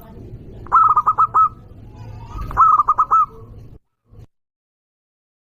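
Zebra dove (perkutut) cooing loudly: two calls about 1.7 seconds apart, each a quick run of about five notes. The sound then cuts out abruptly to dead silence, with one brief blip after.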